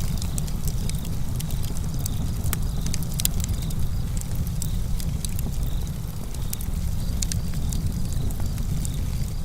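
Campfire crackling: frequent sharp, irregular pops and snaps over a steady low rumble of burning wood.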